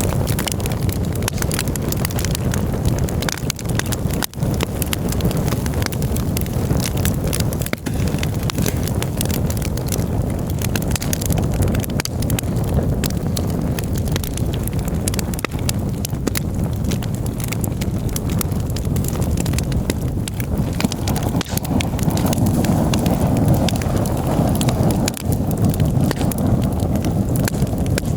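Campfire burning, with constant crackles and pops over a steady low rumble that swells a little louder about two-thirds of the way through.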